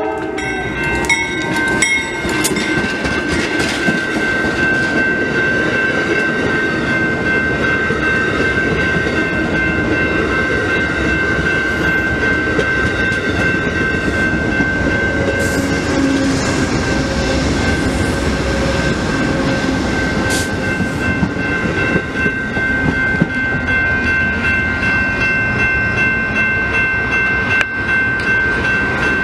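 Train running past at close range, its wheels clattering on the rails, with a steady high-pitched ringing tone over the rumble.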